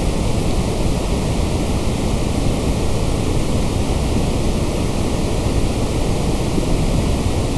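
Steady white noise: an even, unchanging hiss that does not vary in level.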